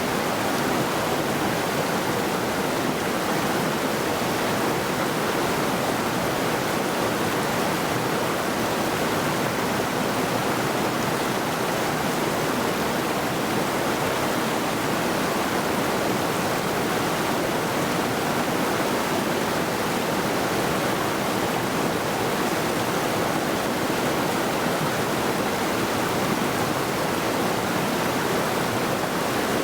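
Mountain river rushing over rocks: a steady, even water noise with no breaks or changes.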